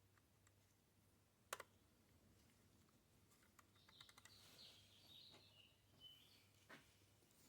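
Near silence broken by a few faint clicks and taps of small parts being handled, the sharpest about a second and a half in and another near the end, with faint bird chirps in the middle.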